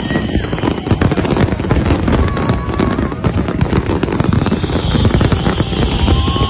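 A dense fireworks barrage: many shells and crackers going off at once, making a continuous stream of sharp bangs and crackling with no pause.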